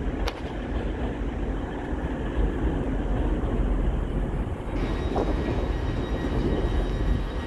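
TransPennine Express Class 185 diesel multiple unit moving past, its diesel engine running under the steady rumble of wheels on rails. A faint high whine joins about five seconds in.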